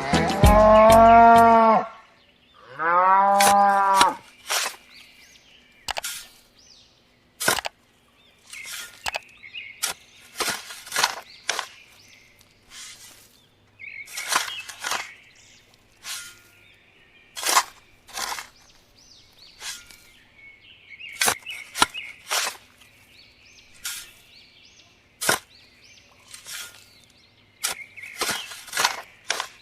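A cow mooing twice, the second call rising and falling, followed by a long series of irregular sharp clicks and taps.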